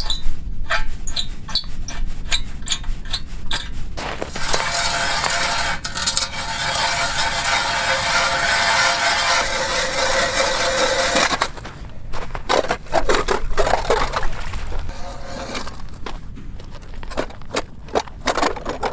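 Hand ice auger drilling through thin lake ice. Irregular scraping strokes come first, then several seconds of steady grinding as the blades cut, then scraping again near the end. The blades are slightly rusty and cut poorly.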